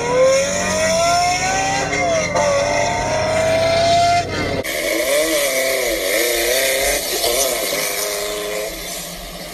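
A sports car engine accelerating hard, its pitch climbing steadily with one quick gear shift about two seconds in. After an abrupt cut about halfway through, a van's engine revs up and down several times.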